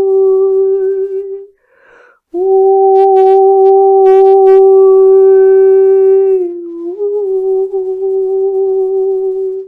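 A woman's voice toning long, held notes on one steady pitch, with a breath about two seconds in and a brief dip in pitch about six and a half seconds in.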